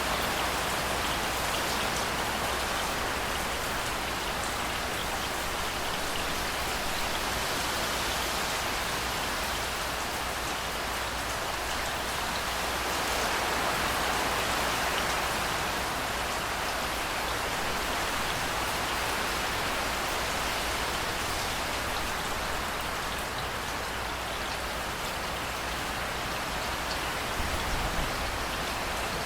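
Steady heavy rain falling and pattering on surfaces, an even hiss that swells slightly about halfway through.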